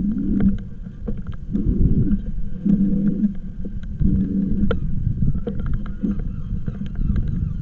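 Riding noise from a moving e-bike: a steady low rumble of road and wind, with a hum that swells and fades about once a second, and scattered light clicks and rattles.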